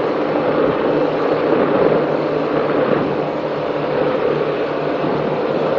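Powerboat engines running steadily at racing speed, a constant drone with the rush of wind and water over the hull.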